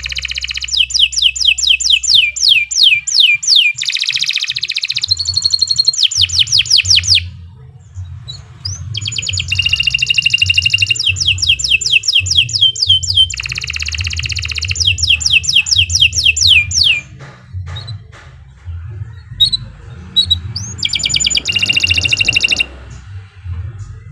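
Domestic canary singing a long, fast song: rapid runs of repeated downward-sweeping notes and rolled trills, in three long phrases broken by short pauses about 7 s and 17 s in. A low rumble runs underneath.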